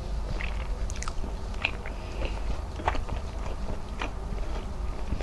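Close-miked chewing of a mouthful of squid adobo and rice, with irregular wet clicks and crackles from the mouth.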